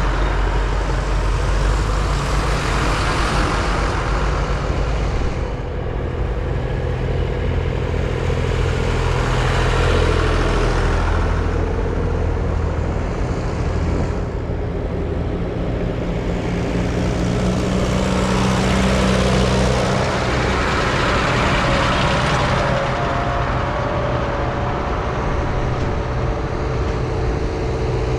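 Diesel tractor engines running on the road, their sound swelling and fading several times over a steady low engine drone.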